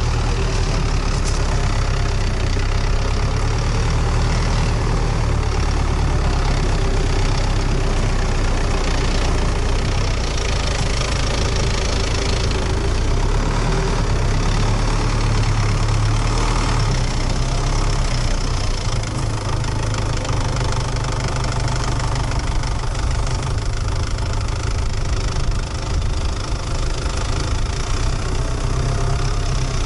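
MTZ-82 tractor's four-cylinder diesel engine running steadily at low revs.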